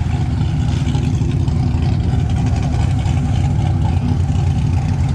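The BMW E46 drift car's engine running steadily, its exhaust pulsing rapidly and evenly with no big revs.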